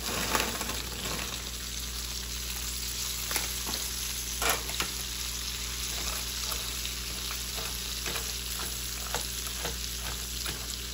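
Frost-coated green beans sizzling steadily in a hot frying pan with browned sausage pieces, stirred with a silicone spatula that adds scattered light clicks and scrapes against the pan, the sharpest about four and a half seconds in.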